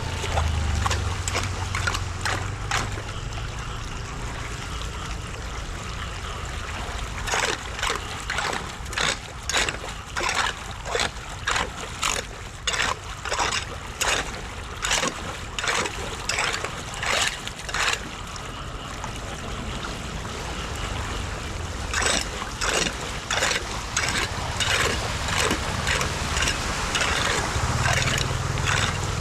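Floodwater running and gurgling, with two long runs of rhythmic splashing strokes, about one and a half a second.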